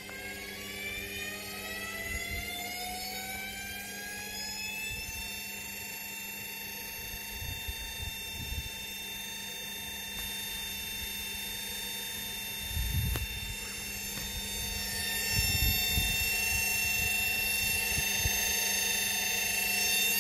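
Indesit washing machine's drum motor spinning up with a load of heavy bricks: a whine that rises for about five seconds and then holds steady, with heavy low thumps twice in the second half.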